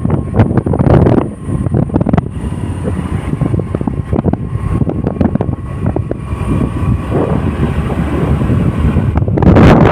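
Wind buffeting the microphone: a low rumble with frequent crackling gusts, turning into a louder, steady rush near the end.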